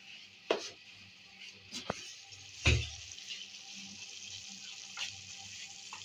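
Chopped saag greens sizzling in a wok over a gas flame, with a few sharp clicks and knocks of a spatula against the pan; the loudest knock, with a dull thump, comes a little under three seconds in.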